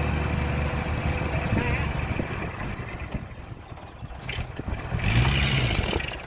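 Heavy construction machine's diesel engine running steadily, easing off, then revving up and back down briefly about five seconds in.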